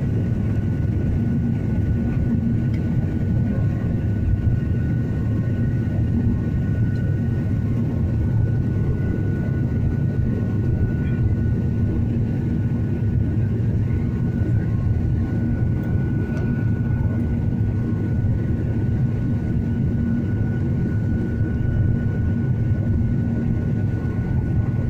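Steady low vehicle drone with a faint high whine held throughout.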